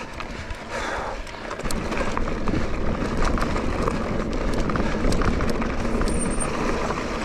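Mountain e-bike rolling over a rocky dirt trail: tyres crunching on gravel and stones, with many small rattles and clicks from the bike over a steady low rumble.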